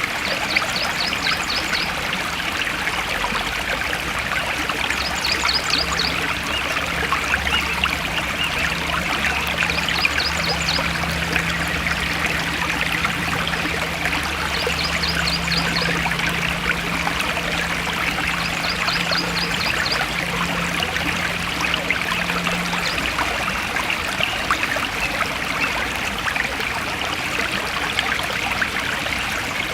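Forest stream flowing steadily over rocks, a continuous rushing, trickling wash of water. A short, rapid high trill repeats five times, about every five seconds, over the first twenty seconds or so.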